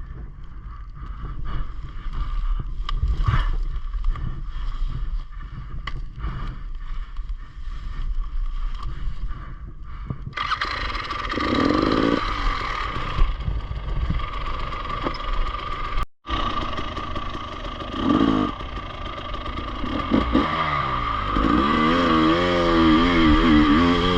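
Enduro dirt-bike engine running, with scattered knocks and clatter. It gets suddenly louder about ten seconds in, and near the end its revs rise and fall repeatedly.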